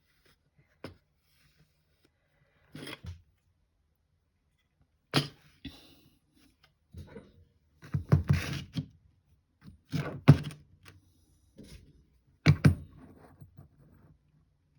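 Small wooden craft pieces being handled and pressed together on a work surface: scattered knocks and taps, a few seconds apart, with short clusters of clatter.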